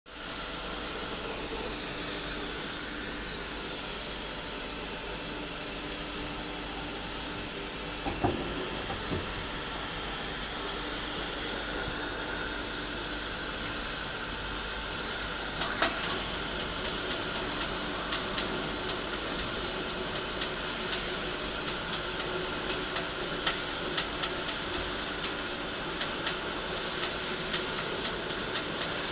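Takisawa TC-30 CNC lathe running with a steady hiss and hum. There are two knocks about eight seconds in. About halfway through a sharp knock is followed by a high steady whine, with irregular ticking from then on.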